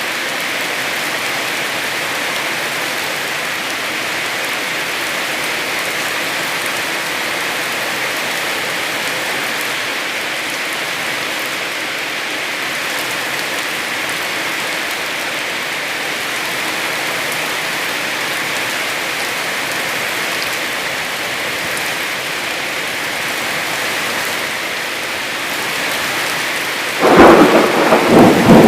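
Heavy rain falling steadily. Near the end a sudden loud, crackling clap of thunder breaks in over it.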